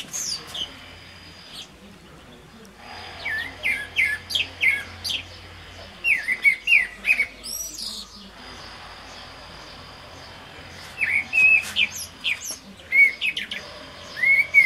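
Birds chirping and singing in spells of quick, high, short notes, with quieter gaps between the spells.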